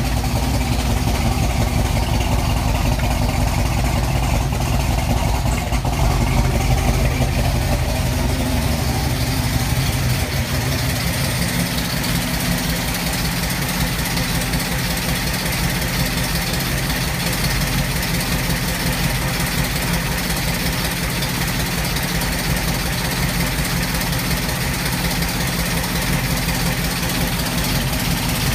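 Ford 306 small-block V8 in a 1989 Fox-body Mustang idling with a misfire, heard through long-tube headers and Flowmaster 40 mufflers; the misfire came from a badly wired MAF sensor. The idle note changes about ten seconds in and then holds steady.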